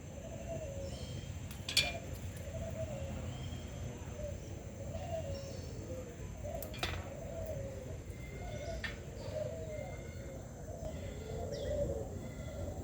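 Several doves cooing over and over, with fainter higher bird chirps among them. Two sharp clicks stand out, about two seconds and seven seconds in.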